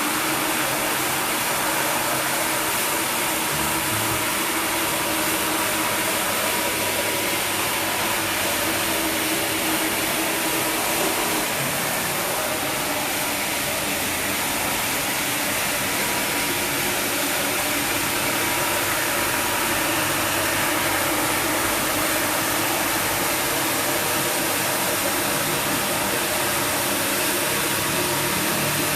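Floor polisher machine running steadily while washing carpet: a dense even hiss with a low steady hum under it.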